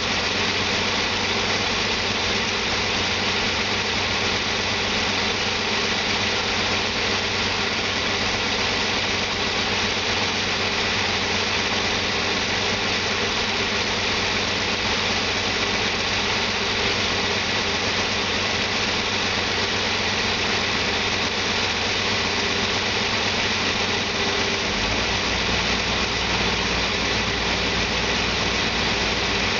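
Used 1993 Toyota T100 3.0-litre V6 running steadily at idle during a run test, which the seller rates as testing good. A deeper low hum comes in near the end.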